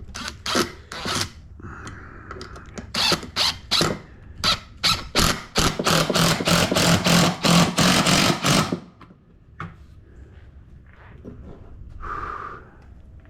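Power drill on wood, run in a quick series of short trigger bursts and then held for about three seconds before stopping, boring holes or driving screws.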